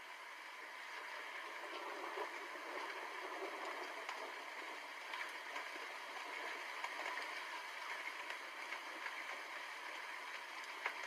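Steady rain falling, with scattered ticks of single drops striking nearby.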